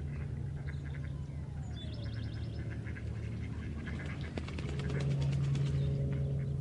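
Waterbirds calling at a wetland: scattered short calls and quick clicking series over a steady low hum, which grows louder about five seconds in.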